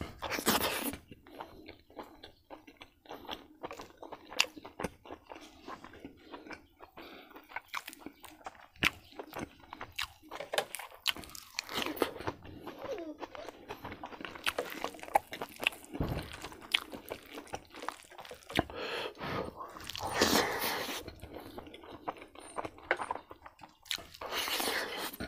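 Close-up eating by hand: a person chewing and crunching raw greens and rice with meat and kidney bean curry. The sound is a run of irregular small mouth clicks with a few louder crunches.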